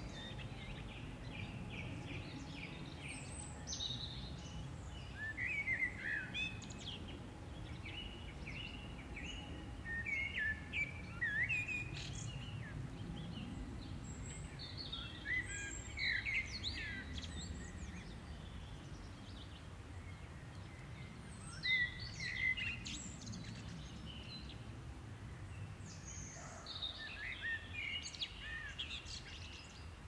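Songbirds singing in short, chirping phrases that come every few seconds, over a steady low background noise of an outdoor field recording.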